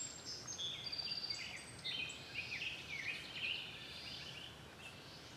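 A songbird singing a rapid, varied string of short high whistled notes that jump up and down in pitch, fading out about four seconds in, over faint outdoor background noise.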